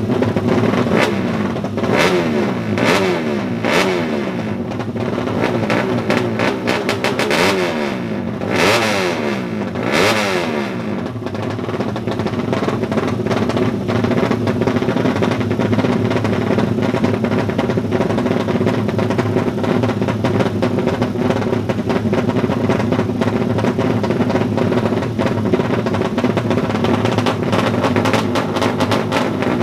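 Tuned underbone (bebek) drag-race motorcycle engines revving in sharp blips, the pitch jumping up and falling back several times in the first ten seconds or so, then running on at a steady high drone.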